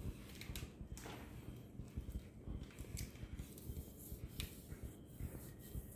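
Faint room noise with a few soft clicks and taps scattered through, at irregular intervals.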